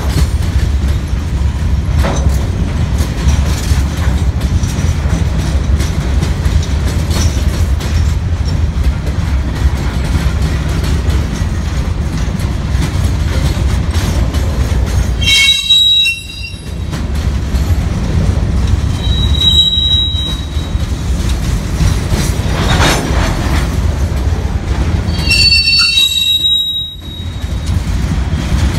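CSX open-top hopper cars of a freight train rolling past close by: a steady rumble and clatter of steel wheels on the rail. High-pitched metal squeals from the wheels break in about halfway through, briefly a few seconds later, and again near the end.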